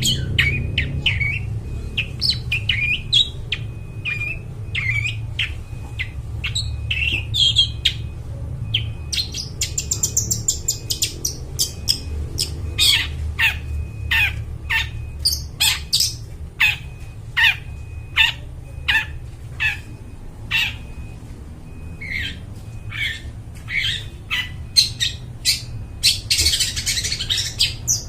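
Long-tailed shrike calling vigorously: harsh squawks and chirps, turning from about halfway into a rapid run of short, sharp calls, with a dense burst near the end. A steady low hum runs underneath.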